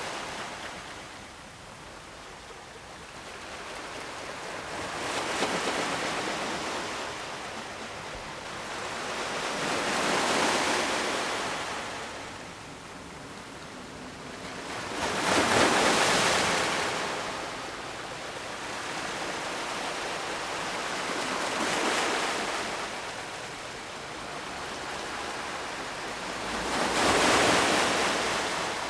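Ocean waves breaking on the shore: a rushing surf noise that swells and falls back about every five to six seconds, five waves in all. The loudest come past the middle and near the end.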